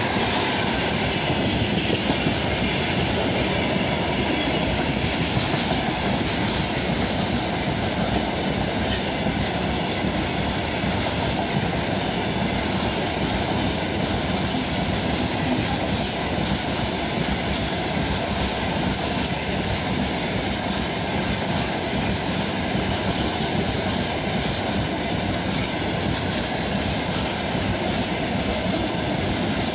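Freight train of open gondola wagons passing close at speed: a steady, unbroken rush of steel wheels rolling on the rails.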